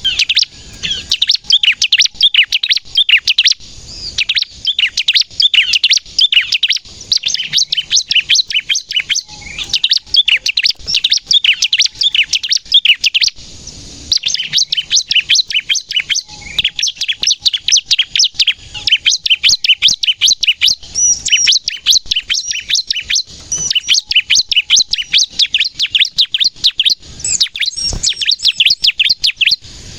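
Bar-winged prinia (ciblek) singing hard in long, rapid strings of sharp, high chirping notes, the fast 'nembak' song, broken only by a couple of short pauses.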